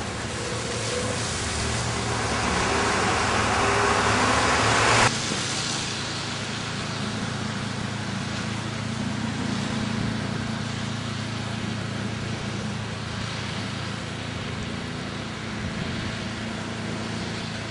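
Steady engine and road noise of a motor vehicle, building louder for about five seconds and then cutting off abruptly to a quieter steady rumble.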